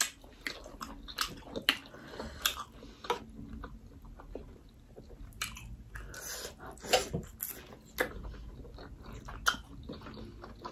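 Chewing and biting while eating momo dumplings: a run of short, irregular wet clicks and smacks, a few louder than the rest.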